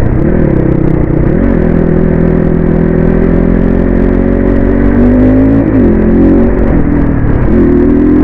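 250 cc dirt bike engine running under way, its note dipping and climbing again several times as the rider works the throttle, over steady road and wind noise.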